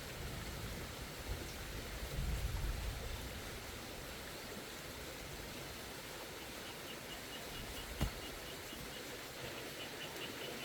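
Steady heavy rain falling, a continuous even hiss, with a low rumble about two seconds in and a single sharp click near the end. Faint rapid high chirps run through the last few seconds.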